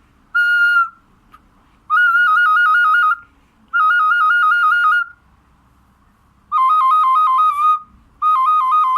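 Small folk whistle pipe (svistulka) blown in five separate notes: a short steady one, then four about a second long, each a rapid trill between two close pitches, the last two a little lower.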